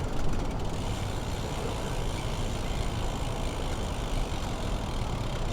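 Steady road traffic noise, heard from a bicycle moving through city traffic.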